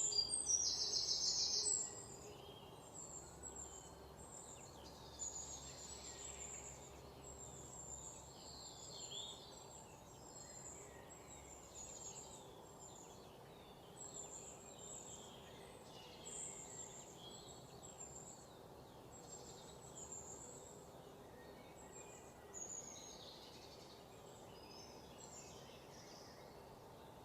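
Wild birds singing and chirping with short, high calls scattered throughout, the loudest a buzzy repeated call in the first two seconds, over a faint steady background hum.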